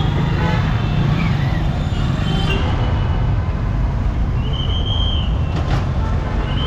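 Busy street traffic: a steady rumble of passing engines, with two short high beeps, one after about four and a half seconds and another near the end.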